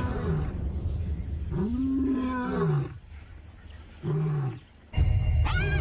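Lions and spotted hyenas calling: several drawn-out calls that rise and fall in pitch, then a deep rumbling growl from about five seconds in, with higher gliding calls over it.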